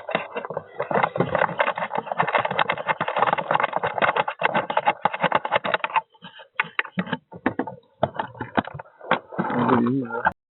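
Rapid clicking, rattling and scraping of a bird feeder being handled while its top is worked at, thinning to scattered clicks after about six seconds. A brief voice is heard near the end.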